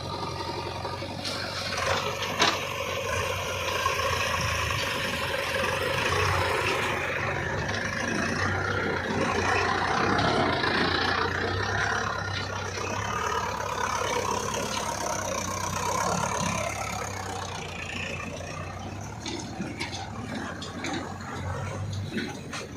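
Heavy diesel machinery engine running steadily, with a couple of sharp knocks about two seconds in.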